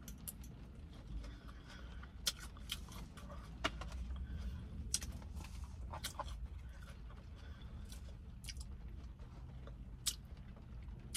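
Close-up chewing of a mouthful of tuna salad, with scattered short wet clicks and smacks about once a second over a low steady hum.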